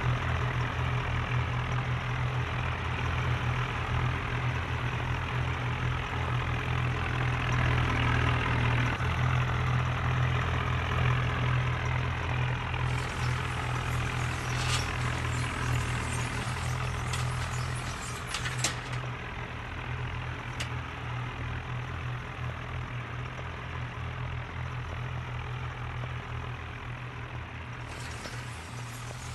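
Tractor diesel engine running steadily with a deep hum, easing off a little in the second half, with a few sharp clicks midway.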